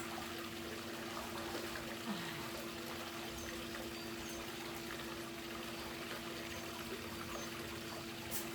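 Water trickling and pouring steadily, over a steady low hum. A few faint, short high chirps come through in the middle.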